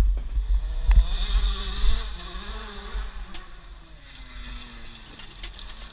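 Off-road motorcycle engine running, its pitch wavering up and down as the throttle changes and fading out after about four seconds, with heavy low rumble from wind or handling on the microphone and a few sharp knocks.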